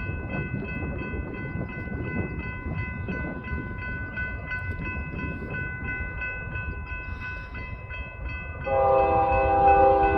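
Railroad grade-crossing bell ringing in rapid, evenly repeated strokes over a low rumble. About three-quarters of the way through, a locomotive's multi-chime air horn starts blowing, loud and held.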